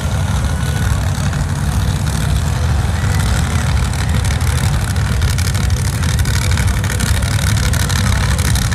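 Monster truck engine running steadily, loud and low-pitched, with no sharp revs.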